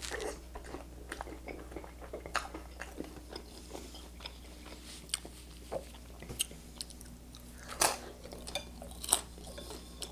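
Close-miked chewing of soft canned pasta in tomato sauce: wet mouth clicks and smacks at an irregular pace, with a few sharper ones in the last couple of seconds.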